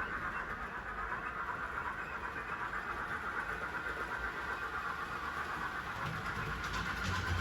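Model train running on the layout's track: a steady motor whine with wheels rolling over the rails, with rail-joint clicks and low knocks coming in near the end.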